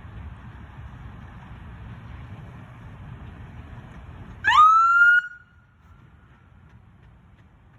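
A police car siren gives one short rising whoop, under a second long, that trails off, over a low steady rumble that drops away as the whoop sounds.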